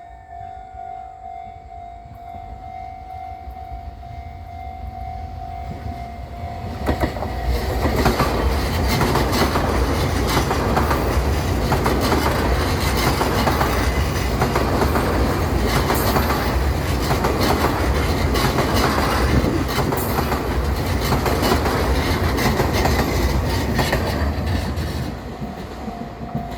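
Tze-Chiang express train passing a level crossing. The crossing's warning signal sounds a steady tone as the train's noise builds for several seconds. The train then runs past loudly for about 17 seconds, its wheels clicking over the rail joints, and dies away near the end, when the warning tone can be heard again.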